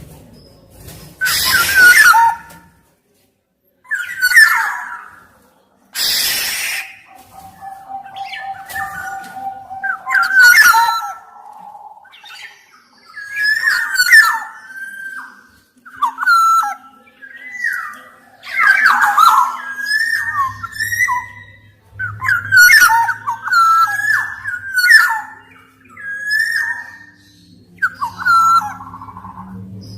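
Black-naped oriole (kepodang emas) singing: a run of fluty, sliding whistled phrases, broken by two loud harsh rasping calls near the start.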